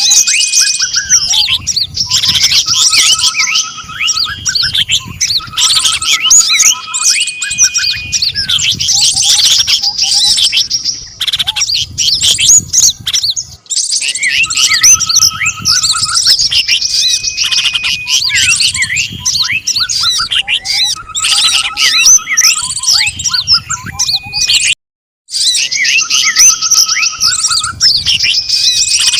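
Bird-trapping lure recording: many small songbirds chirping and calling together in a dense, continuous chatter of high notes and short whistles. The same stretch of calls repeats about every twelve seconds as a loop, with a brief cut to silence near the end.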